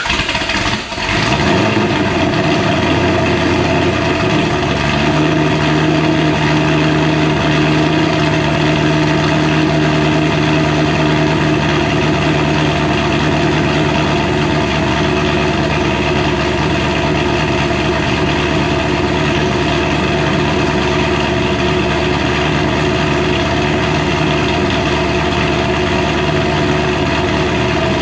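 Supercharged 427-cubic-inch LS V8 of a 2006 Pontiac GTO idling seconds after a cold start, heard from the exhaust. The idle steps down to a lower, steady speed about four to five seconds in.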